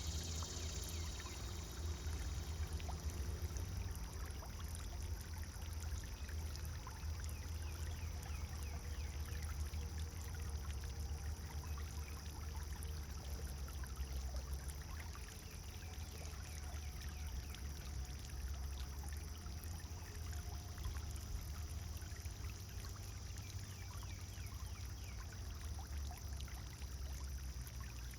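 Pond fountain water splashing and trickling steadily, over a steady low rumble.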